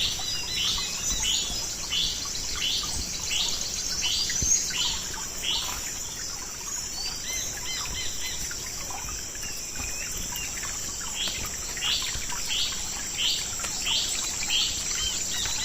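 Swamp-side insect chorus holding a steady high-pitched drone, with a short bird call repeated about twice a second that pauses for several seconds midway and then resumes.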